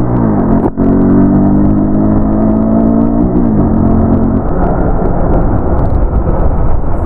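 Motorcycle engine running, its pitch falling twice as the throttle eases off. After that, a loud rush of wind on the microphone drowns it out.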